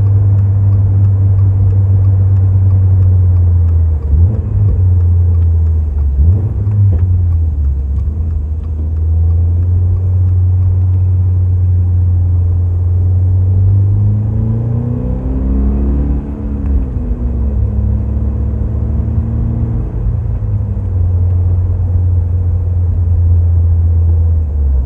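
2023 Toyota GR86's 2.4-litre flat-four engine breathing through a Fujitsubo A-R catback exhaust, a steady low drone while driving. The note briefly changes about four and six seconds in, and about fifteen seconds in it rises and falls in pitch before settling back to the drone.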